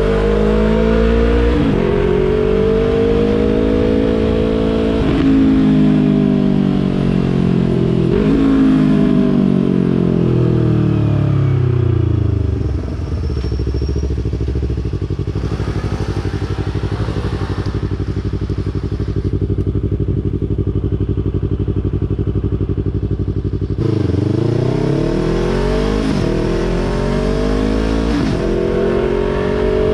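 A 2020 Yamaha YZF-R3's 321 cc parallel-twin engine through a Yoshimura exhaust, accelerating through the gears with quick upshifts. It then slows and idles steadily for about twelve seconds before pulling away again, shifting up twice more.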